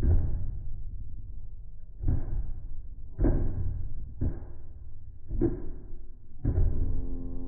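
Large drums struck in a slow beat, six deep hits each dying away, the first two about two seconds apart and the rest about a second apart; the last hits ring on with a held pitch.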